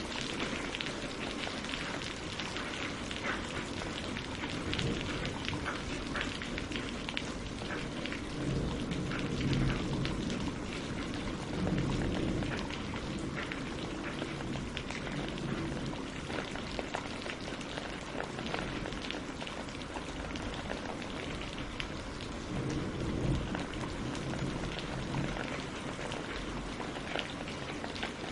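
Steady rain falling on leaves and lake water, with many separate drops pattering through it. A low rumble swells up three times, about a third of the way in, near the middle and again later.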